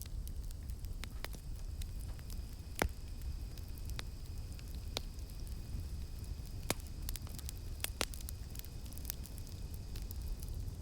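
Campfire crackling: scattered sharp pops, the loudest about three seconds in and again about eight seconds in, over a low steady rumble. A steady high drone of cicadas runs underneath.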